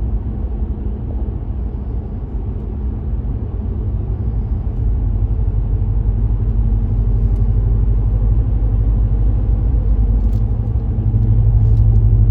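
2019 Ram Rebel's Hemi V8 with its muffler and resonator deleted, a steady low exhaust drone heard from inside the cab while cruising, with the engine running in MDS cylinder-deactivation mode. It grows gradually louder and steps up near the end.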